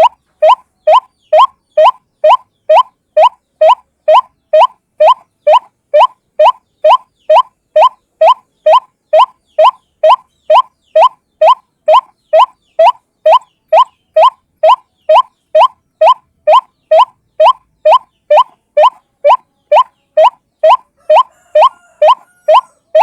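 White-breasted waterhen (ruak-ruak) calling a steady, monotonous series of short upslurred notes, about three a second, as a bird-trapping lure call.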